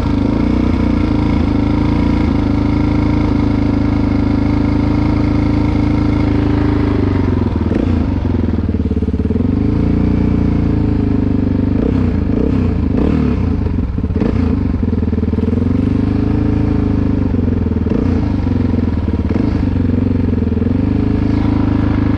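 Dirt bike engine running close by, its pitch dropping and climbing again several times as the throttle is eased off and opened.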